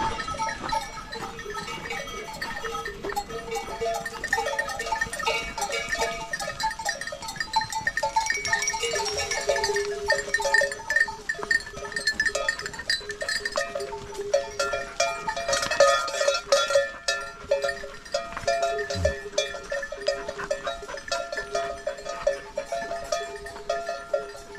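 Many small bells clanking irregularly at several different pitches, like the bells of a grazing flock of livestock.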